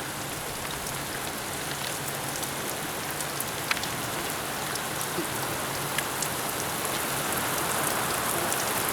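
Steady rain falling, with scattered sharp drop hits and growing a little louder toward the end.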